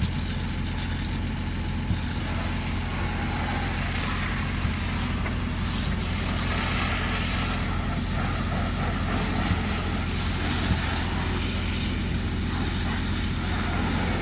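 A machine running steadily with an even low hum, overlaid by a hiss that swells and fades, and a few light clicks.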